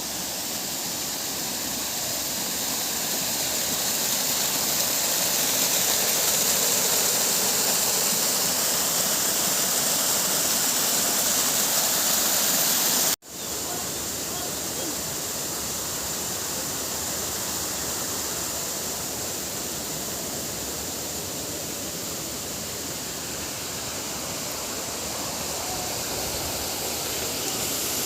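Steady rushing outdoor noise that swells slightly over the first few seconds, broken once by a sudden dropout about 13 seconds in where the recording is spliced.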